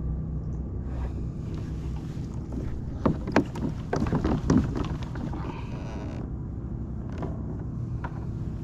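A kayak being maneuvered through the water, with a steady low hum throughout. A cluster of sharp knocks and splashes comes about three to five seconds in.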